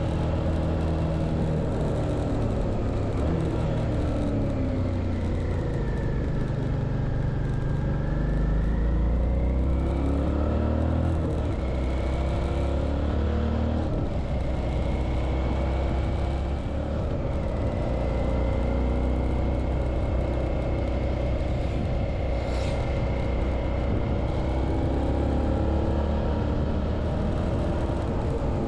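Suzuki V-Strom 650's V-twin engine running under way, its pitch rising and falling with the throttle.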